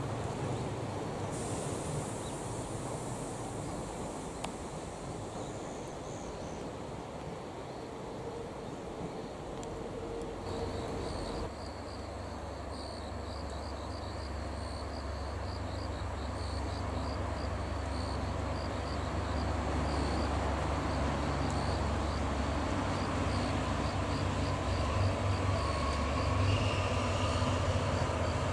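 A DE10 diesel locomotive approaching, its engine's low drone coming in about a third of the way through and growing louder toward the end. Insects chirp in a fast, pulsing high trill over the same stretch.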